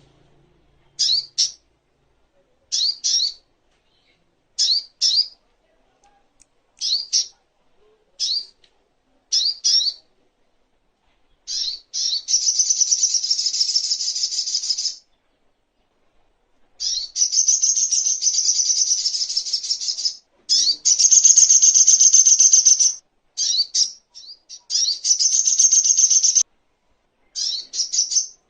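Brown-throated sunbird (sogok ontong) singing: high, short double chirps with a quick upward slur, repeated every second or two. From about twelve seconds in, these give way to long, fast twittering phrases of two to three seconds each, broken by short chirps.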